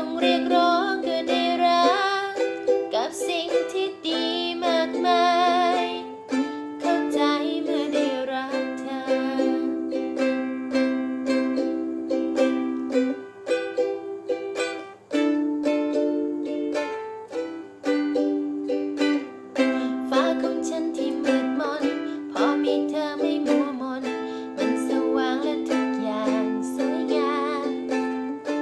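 Ukulele-accompanied song in a wordless stretch, with a wavering melody line over steady chords.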